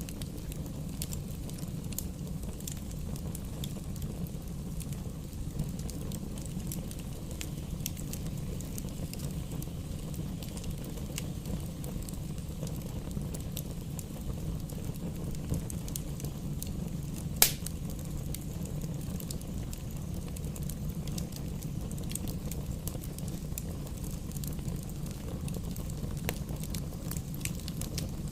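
Campfire burning with a steady low rumble and scattered small crackles, with one sharp, louder pop a little past halfway.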